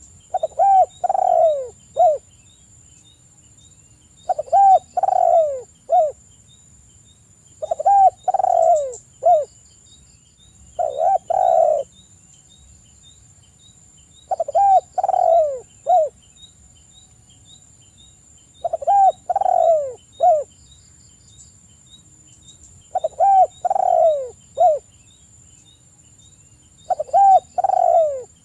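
Spotted dove (tekukur) cooing its three-note song, a phrase repeated about every three and a half to four seconds, eight times over.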